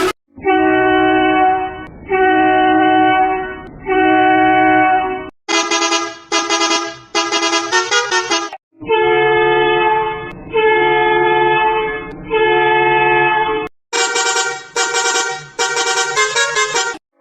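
Vehicle horn sounding three long blasts at one pitch, then a run of short, brighter toots lasting about three seconds; the whole pattern plays twice.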